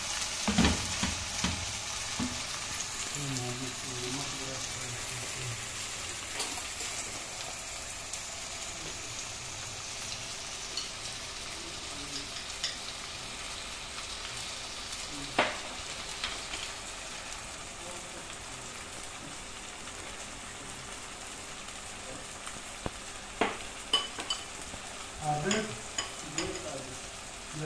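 Chicken pieces and onions sizzling steadily as they fry in a pan, stirred with a wooden spatula at first. A few sharp clicks come about fifteen seconds in and several more near the end.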